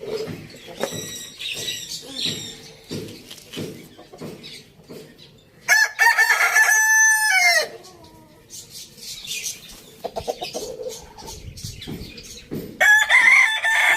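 Rooster crowing twice: one long crow about six seconds in that drops in pitch at its end, and another starting near the end. Between them, chickens make shorter, quieter calls.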